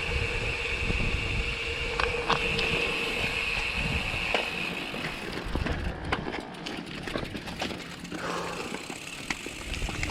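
Wind rumble and road noise while riding a bicycle. A steady high whine runs for the first four seconds or so, then scattered light ticks and clicks follow.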